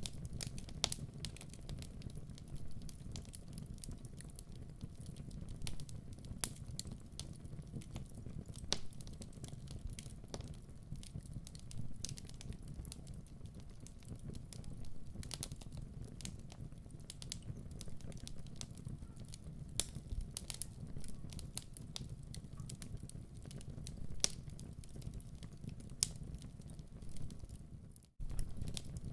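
Wood fire burning in a fireplace: a steady low rumble with irregular sharp crackles and pops. It drops out briefly near the end.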